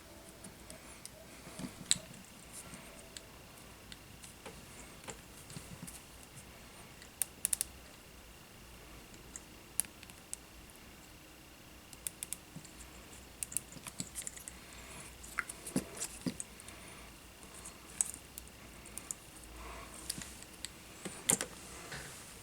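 Small parts and hand tools being handled at a workbench during drone frame repair: scattered, irregular light clicks, taps and small rattles. A faint steady high tone sits underneath for the first half or so.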